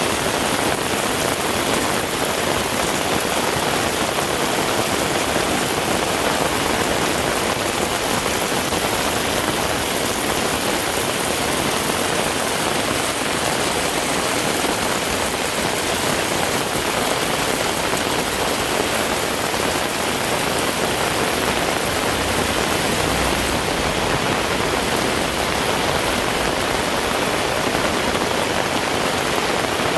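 Heavy rain falling steadily, a dense, even hiss of drops on the road and surrounding surfaces.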